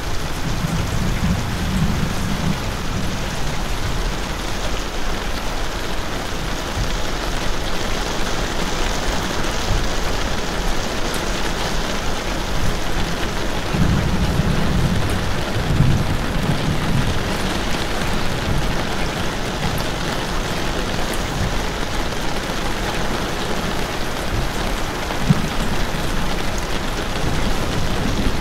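Steady rain falling, with a low rumble that swells and fades a few times, around the start and about halfway through.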